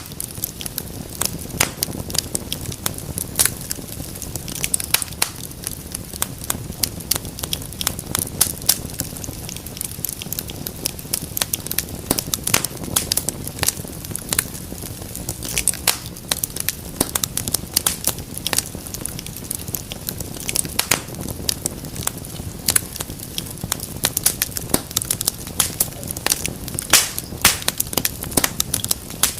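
Fireplace fire crackling steadily, with frequent sharp irregular pops over a low, even rumble of the flames.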